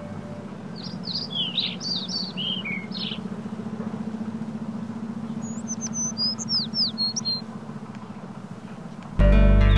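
Small birds chirping and twittering in two bursts of quick, rising and falling calls, over a low steady hum. Loud music starts suddenly near the end.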